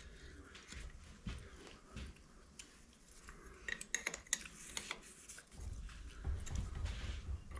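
Light metal clinks and clicks of steel tools and lathe parts being handled, scattered and irregular, with a low rumble joining from about five and a half seconds in.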